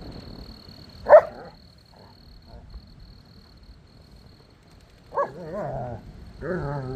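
A dog barks once, sharply, about a second in; a little after five seconds it barks again and then gives two drawn-out, wavering whining howls.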